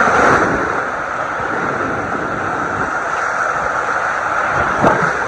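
Steady rushing of a waterfall pouring into the river, with a short knock near the end.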